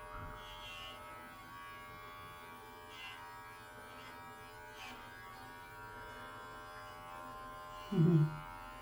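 Electric pet hair clippers running with a steady buzz. A short vocal sound comes about eight seconds in.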